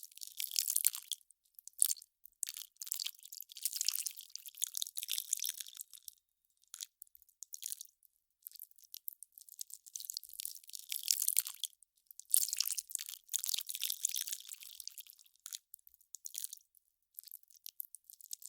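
Melting ice crackling: dense clusters of fine, high crackles that come and go irregularly, with short quiet gaps between them.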